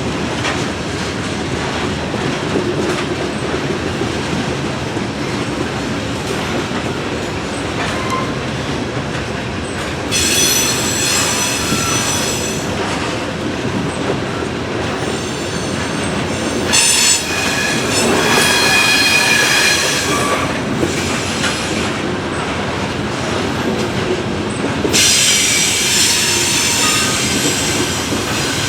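Freight train cars rolling past with a steady rumble of wheels on rail. Shrill wheel squeal comes and goes several times: once about a third of the way in, again in the middle for a few seconds, and again near the end.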